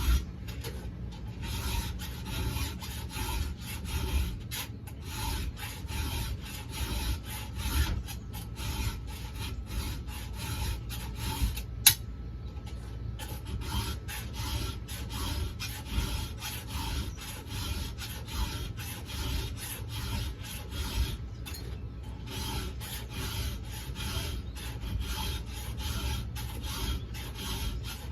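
Round file being stroked across chainsaw chain cutters by hand, a steady run of repeated rasping file strokes as each tooth is sharpened. There is one sharp click about halfway through.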